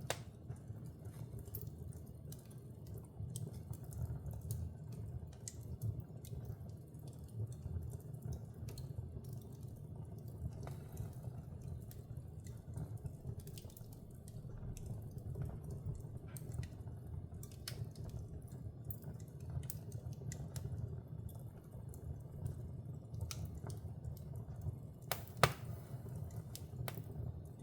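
Wood fire in a fireplace crackling: scattered sharp pops and snaps over a steady low rumble, with one louder pop about 25 seconds in.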